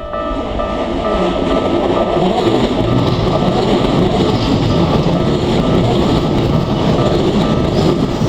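Electric commuter train running through a level crossing: a loud rush of wheel and running noise that builds over the first second and stays steady. The crossing's warning bell keeps ringing faintly above it.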